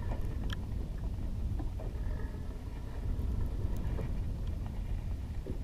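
Steady low rumble of a boat on the sea, with a few faint clicks scattered through it.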